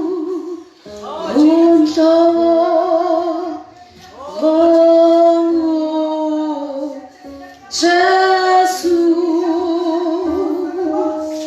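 A woman singing a church song in three long phrases, holding notes with a wide vibrato.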